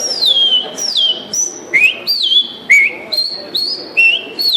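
A man whistling an imitation of the male bicudo's (great-billed seed finch's) song: a quick run of short, clear notes, two to three a second, most sliding down in pitch and a few sliding up.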